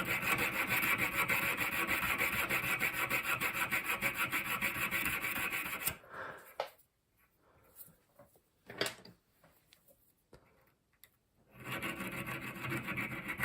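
Hand file scraping across the steel tip of a flat-bladed screwdriver being cut into a checkering tool, in quick, even strokes. The filing stops about six seconds in, leaving a gap with a couple of light knocks, and starts again near the end.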